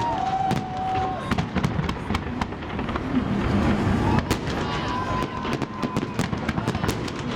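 A fireworks salute going off: many sharp bangs and crackles in quick succession, with a steady whistling tone heard now and then.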